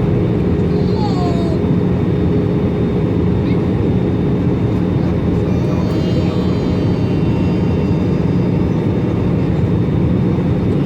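Steady cabin noise of an Airbus A320 in flight, heard from a window seat: a constant engine and airflow roar with a steady low hum running through it.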